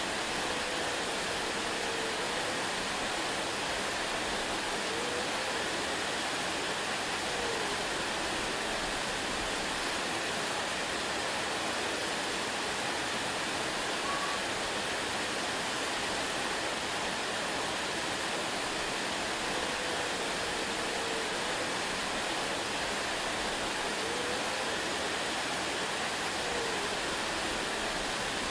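Waterfall: a steady, even rush of falling water, with a few faint short gliding tones in the background.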